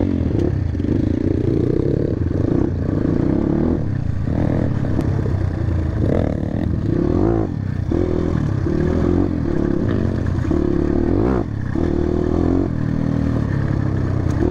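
Motorcycle engine running under load while riding, its pitch holding for about a second at a time and then breaking or gliding as the throttle opens and closes.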